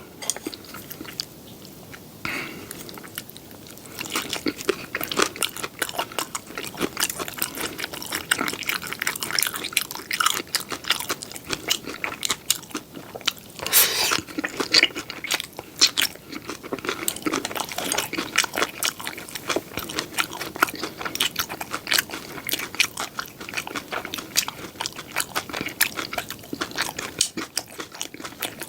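Close-miked ASMR chewing of seafood pajeon: rapid, wet crunching and smacking clicks of a mouth eating crisp pan-fried pancake, sparse for the first few seconds and then dense and continuous. A louder bite comes about fourteen seconds in.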